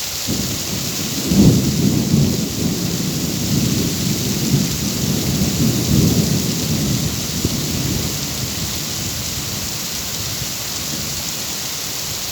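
Steady rain with a rumble of thunder. The rumble starts just after the beginning, is loudest about a second and a half in, rolls on in several swells and fades away after about eight seconds, leaving the rain.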